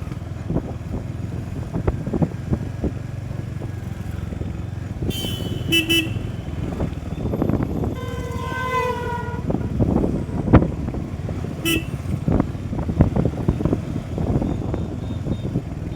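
Vehicle horns honking in road traffic over the steady low rumble of a moving motorcycle ride. There are short toots about five to six seconds in, a longer horn of about a second and a half around eight seconds in, and another short toot near twelve seconds.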